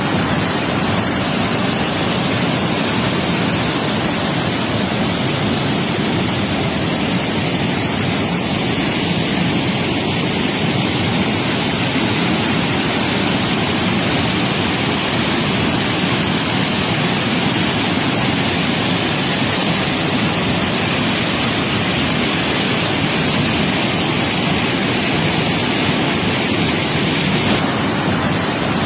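Flash-flood water rushing in a steady, loud, unbroken torrent, the swollen stream after a cloudburst.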